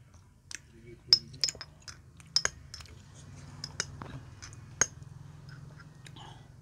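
Close eating sounds: irregular sharp clicks and smacks of chewing, three of them louder than the rest.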